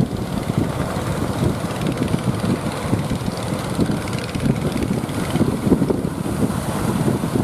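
Strong wind buffeting the microphone, a steady low rumbling noise that flutters constantly.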